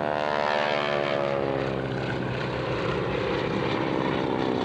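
Propeller aircraft flying past, its piston-engine drone falling in pitch over the first two seconds or so as it goes by.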